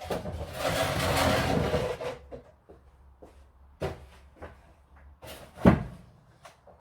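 A rushing, scraping noise for about two seconds, then a few scattered knocks, the loudest a sharp clunk near the end.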